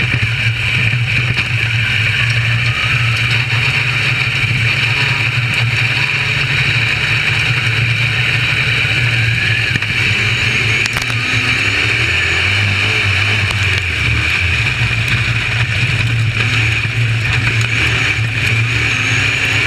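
UMP modified dirt race car's V8 engine running steadily under power. Its note drops for a moment about twelve seconds in, then comes back up.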